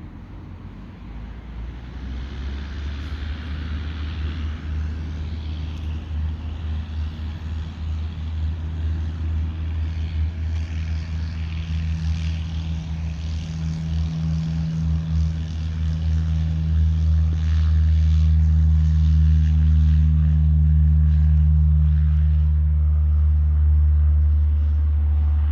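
Small propeller plane's engine running with a steady low drone, growing louder through most of the stretch and then holding at full level, as the plane powers up for takeoff.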